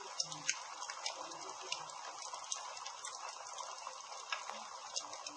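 Campfire burning: a steady hiss with sharp crackles and pops at irregular intervals.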